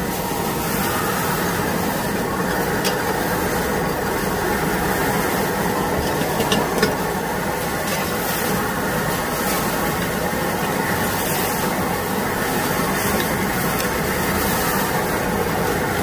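Pad thai frying in a wok over a wood fire: a steady sizzle and hiss, with a few sharp clicks.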